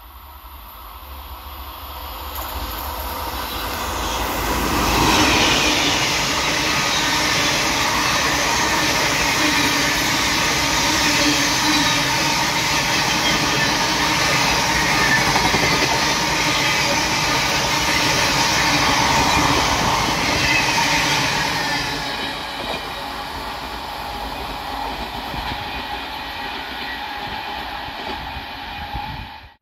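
Electric-locomotive-hauled Indian express train passing at speed. The wheel and rail noise grows over the first five seconds as it approaches, stays loud and steady with the clatter of the coaches, eases somewhat about twenty-two seconds in, and then cuts off abruptly at the end.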